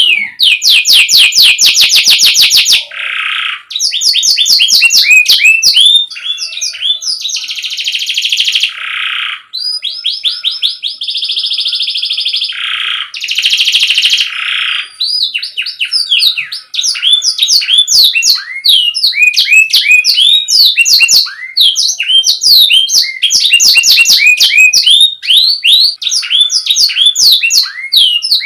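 Domestic canary singing continuously: fast runs of repeated rising chirps, broken by held buzzy trills of a second or two.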